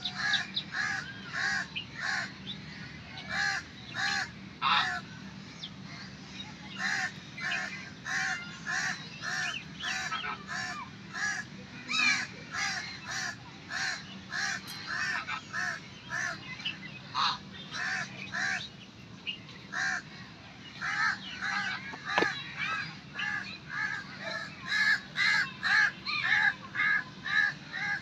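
Birds calling: a steady run of short, harsh, caw-like calls, two or three a second, with brief pauses.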